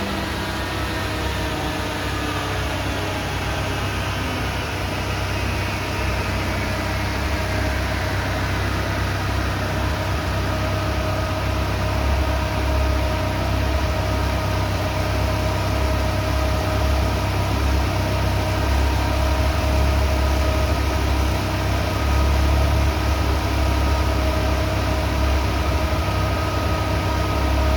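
Toyota AE86's swapped-in AE111 4A-GE 20-valve four-cylinder engine idling steadily. A faint high whine falls slowly in pitch over the first several seconds.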